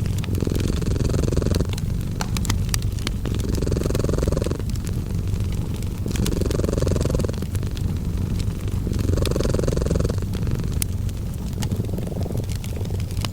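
Close-up domestic cat purring, a steady low rumble that swells and eases with each breath about every two and a half seconds. Scattered sharp crackles and pops of a wood fire run throughout.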